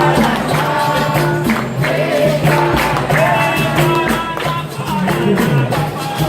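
Capoeira roda music: voices singing over a steady rhythm of pandeiro (tambourine) and other percussion.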